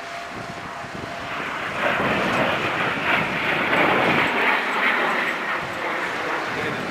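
An aircraft flying past at an air show. Its noise swells about two seconds in, is loudest in the middle, then slowly fades.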